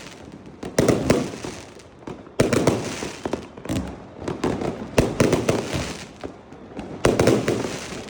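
Fireworks going off in repeated volleys: about five bursts of sharp bangs and crackle, one every second or two, each dying away before the next.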